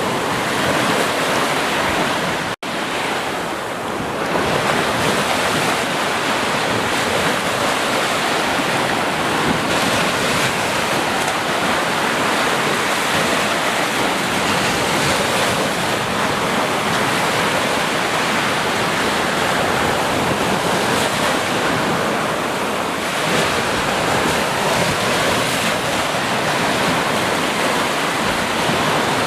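Steady rushing water, a dense even wash with gentle swells in loudness. The sound cuts out for an instant about two and a half seconds in.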